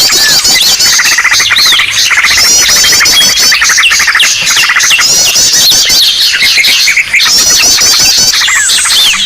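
Loud, dense chorus of many small birds calling at once: overlapping chirps, fast trills and sharp squeaks with no pause. It is a noisy bird-lure recording ('suara pikat ribut') made to draw wild birds in.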